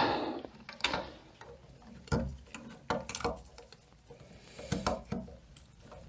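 Light clicks and knocks of small metal transmission parts being handled and set down, about one a second.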